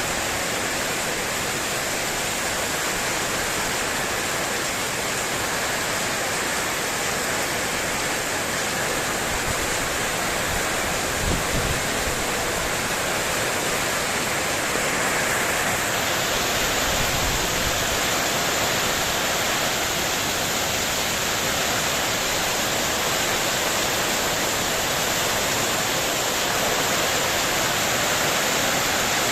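Heavy wind-driven rain pouring on a spandek metal-sheet terrace roof, a steady dense hiss. A few brief low thumps come around the middle.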